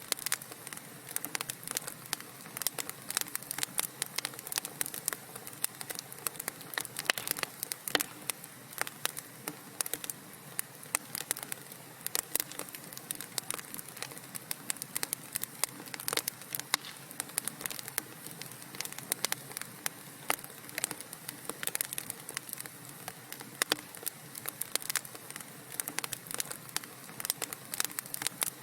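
Wood fire crackling in a fireplace: dense, irregular pops and snaps over a soft hiss.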